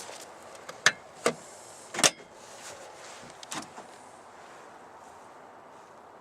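Four sharp clicks and knocks in the first four seconds, the loudest about two seconds in, from parts of a new Ford F-150 pickup being handled and worked.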